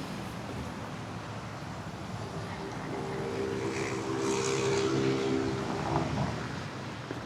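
Motor vehicle passing on a city street at night, its engine hum swelling from about three seconds in and fading again after six, over steady traffic noise.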